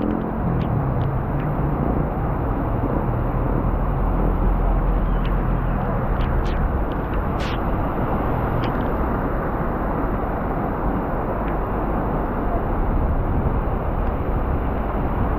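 Heavy rain falling steadily with a dense, even hiss. A vehicle's low rumble runs under it in the first few seconds, and a few sharp taps stand out about halfway through.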